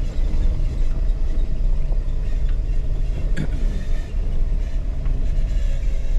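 A 4x4 crawling over a rocky mountain trail, heard from inside the cabin: a steady low rumble of engine and tyres on rock, with a single sharp knock about three and a half seconds in.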